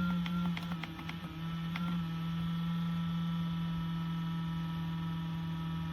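A steady low electrical hum, with a handful of sharp clicks in the first two seconds.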